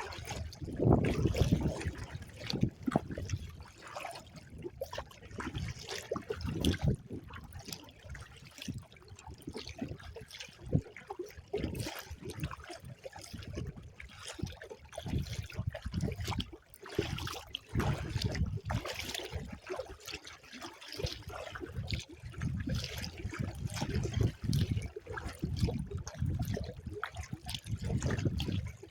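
Choppy lake water sloshing and splashing against a kayak, in irregular surges, with gusty wind rumbling on the microphone.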